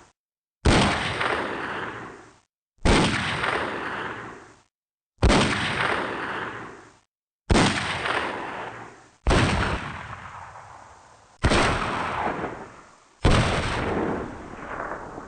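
Seven separate gunshot-like blasts, one about every two seconds. Each is a sudden bang followed by an echoing tail that dies away over a second or two and then cuts off into silence before the next.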